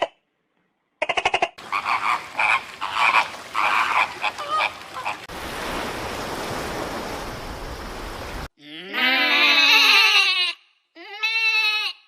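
Frogs croaking: a short burst of rapid pulsed croaks, then a chorus of repeated calls, followed by a steady hiss for about three seconds. Near the end come two long pitched calls from a different animal.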